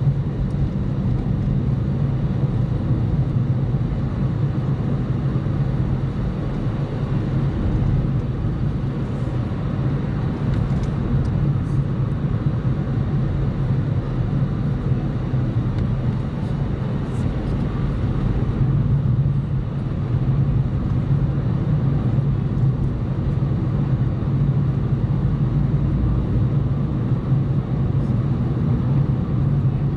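Car driving at steady speed, heard from inside: a steady low engine and road drone with tyre noise.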